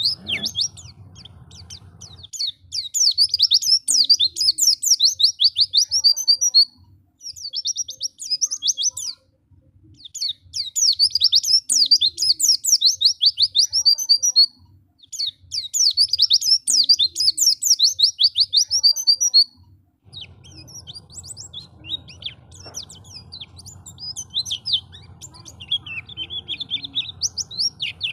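White-eye (pleci) singing: long, fast runs of high chirps and trills in phrases of about four seconds with short breaks between them, turning to softer, scattered chirping over a faint low hum in the last third.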